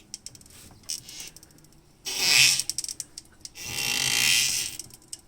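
A Morgan 3 Wheeler making a squeaky, creaking noise: two drawn-out rasping squeaks, the second longer, with light clicks between them.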